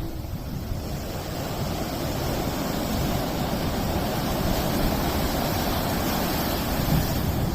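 Steady rush of wind and breaking surf that slowly grows louder, with wind buffeting the microphone.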